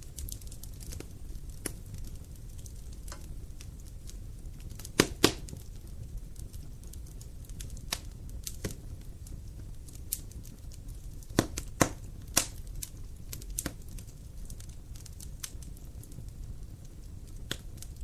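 Wood fire crackling: a steady low rumble of burning wood with scattered sharp pops, the loudest a quick double pop about five seconds in and a few more around eleven to twelve seconds in.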